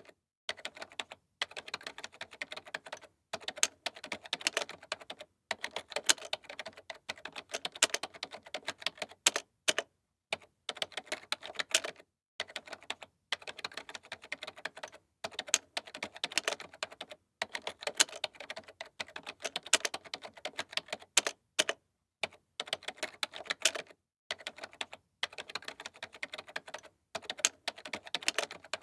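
Typing on a computer keyboard: fast runs of crisp key clicks in bursts of a second or two, broken by short pauses.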